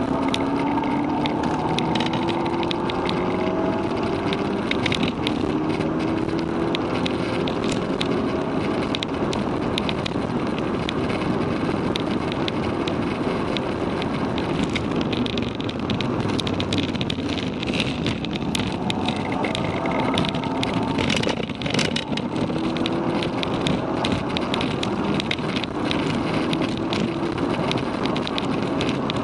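Mk6 Volkswagen GTI's APR Stage 1 tuned turbocharged 2.0-litre four-cylinder heard from inside the cabin under hard acceleration on track: the engine note climbs in pitch, drops at each upshift and climbs again. Heavy road, tyre and wind noise runs underneath, and the engine fades back in the middle of the stretch before climbing again near the end.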